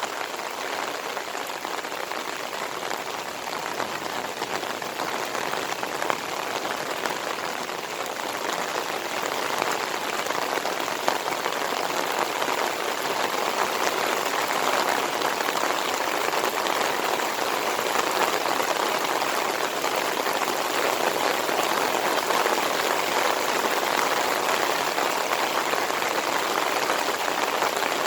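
Heavy monsoon rain pouring steadily, a dense even patter of drops, growing somewhat louder about halfway through and then holding.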